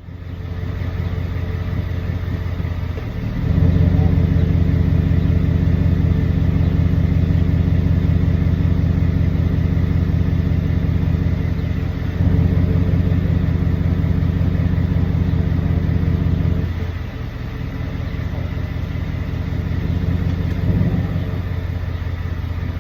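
Ford F-150's 5.0 L Coyote V8 running steadily. It gets louder a few seconds in and settles back down about three quarters of the way through.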